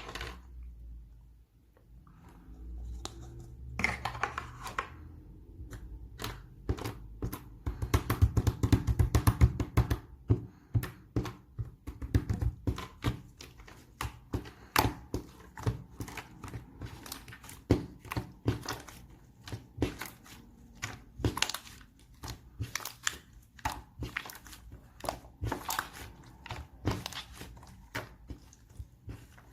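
A dense, irregular run of sharp clicks, taps and light thuds with some crinkling: close handling noise. It grows busier from about eight seconds in.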